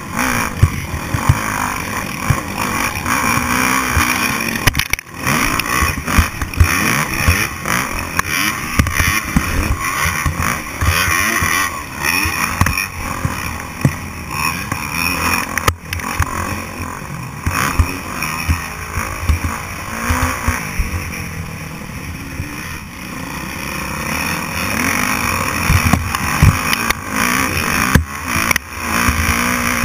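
Motocross dirt bike engines revving up and down as they race, with the pitch rising and falling, over many sudden low knocks.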